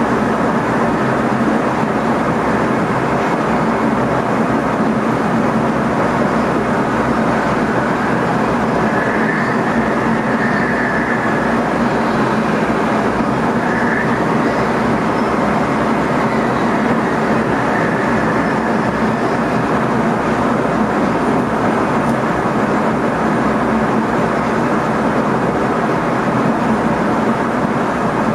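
NS ICM (Koploper) electric multiple unit running steadily along the line, heard from inside the driver's cab: a constant rumble and rush of wheels on rail. A faint high whine comes and goes around the middle.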